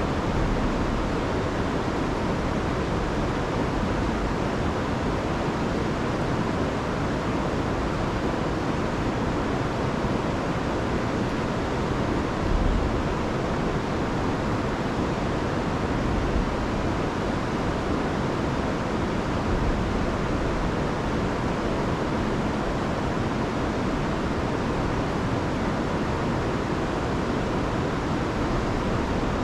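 Rushing river water, a steady, even rush swollen by a week of heavy rain, with a brief low gust around the middle.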